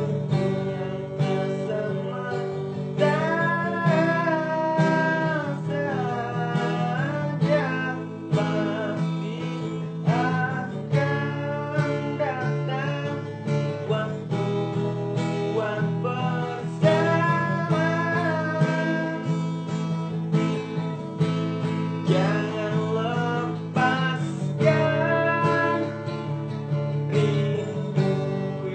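Music: a strummed acoustic guitar accompaniment under a melody line that glides and bends in pitch.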